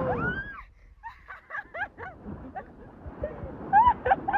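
People's voices giving a string of short, high-pitched excited yelps and squeals, loudest near the end. Rushing water noise cuts out under a second in.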